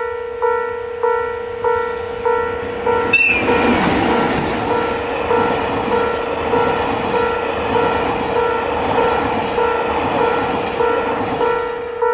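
Railway level crossing warning bell ringing steadily, about one and a half strokes a second. About three seconds in, a train gives a short high horn blast and then passes with a loud, continuous rumble of wheels on rail under the bell.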